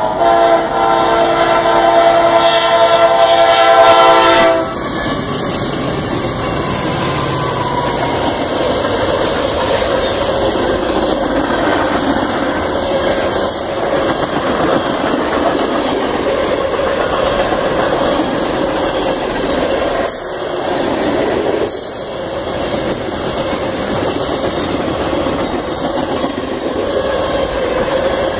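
Diesel freight locomotive's multi-chime air horn blowing a loud, steady chord that stops about four seconds in. After that, the freight cars roll past close by with a steady noise of steel wheels on rail.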